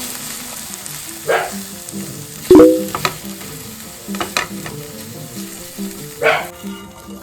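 Scrambled eggs sizzling in a hot frying pan while a utensil stirs and scrapes them, with several sharp clinks against the pan. The loudest clink, about two and a half seconds in, rings briefly. The sizzling stops near the end.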